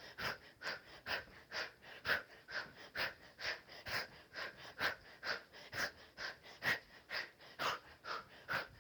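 A woman's sharp, rhythmic breaths, about two a second, kept in time with a kickboxing drill of punches and elbow strikes.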